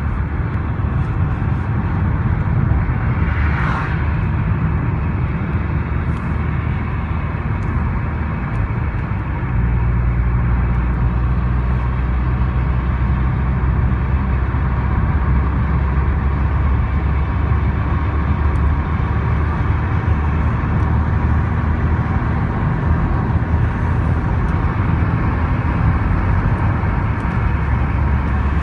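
VW Golf R20 engine running under way, a steady low drone with a brief higher sound about four seconds in. About nine seconds in it settles into a deeper, stronger note. The owner is listening for suspected misfires.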